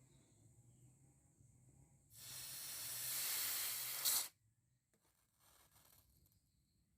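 Hiss of steam as a red-hot steel blade is quenched in water, lasting about two seconds and cutting off suddenly.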